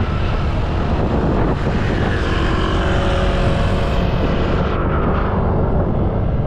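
A vehicle travelling along a road, with a steady rumble of wind and road noise buffeting the microphone.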